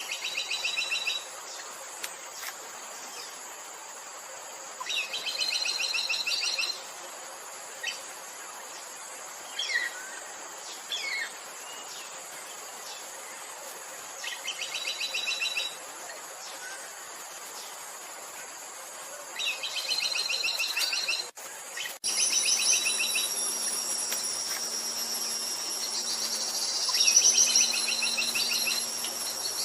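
Buff-rumped woodpecker calling: a fast trill of high notes lasting a second or two, repeated five times, with a few short falling call notes between. Underneath is a steady insect background, which about two-thirds of the way through switches abruptly to a louder, steady high insect drone.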